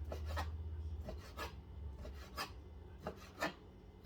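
Knife slicing raw chicken into thin strips on a cutting board: a run of irregular cuts, each a short rasping stroke.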